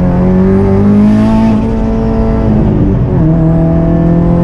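Turbocharged Subaru WRX flat-four with a straight-pipe exhaust accelerating hard, its engine note climbing, dropping at an upshift about three seconds in, then climbing again in the next gear. A faint high whistle rises along with it.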